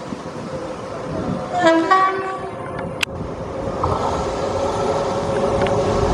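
Indian Railways locomotive horn sounding a short two-note blast about a second and a half in. After a sharp click, the steady hum of a running locomotive sets in and grows slightly louder.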